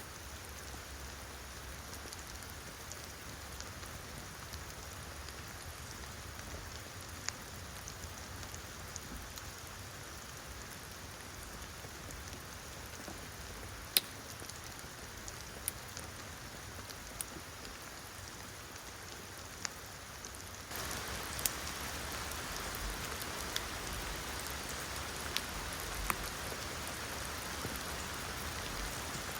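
Steady rain, with scattered single drops ticking sharply. The rain grows abruptly louder about two-thirds of the way through.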